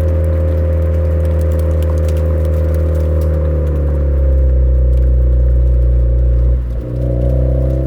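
Suzuki Swift Sport ZC33S's 1.4-litre turbo four-cylinder running steadily through a Fujitsubo aftermarket exhaust, its pitch easing slightly. Near the end the sound briefly drops out, then the engine note returns a little higher.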